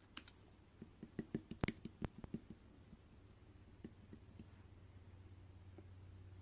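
Green marbled slime being handled, giving a quick run of sharp clicks and pops about a second in, then a few more near the middle, over a faint low steady hum.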